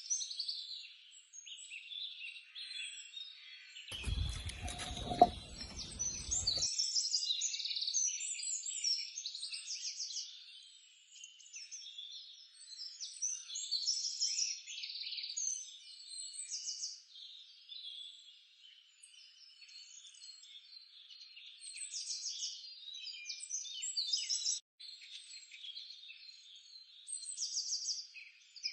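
Birds chirping and calling busily, short high chirps and trills overlapping throughout. About four seconds in, a low rumbling noise lasts a couple of seconds, with a sharp click in it.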